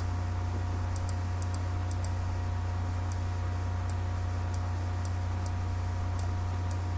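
Scattered light clicks of a computer mouse and keyboard, a dozen or so at uneven spacing, over a steady low electrical hum.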